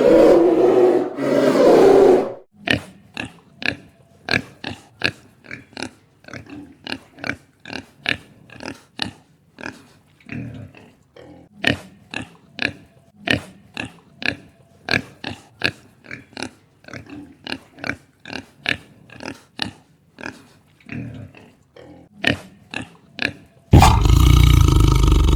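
An animal grunting in a long series of short, sharp grunts, about two a second. A loud, long roaring call fills the first couple of seconds, and another starts near the end.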